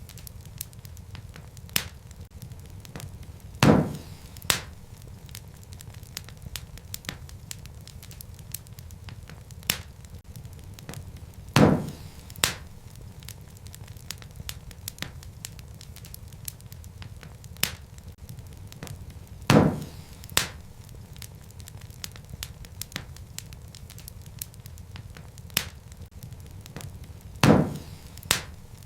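Wood fire crackling: a steady low rumble of flames with frequent small snaps. About every eight seconds a loud pop comes, followed by a smaller one, four times over in the same pattern, as a looped recording repeats.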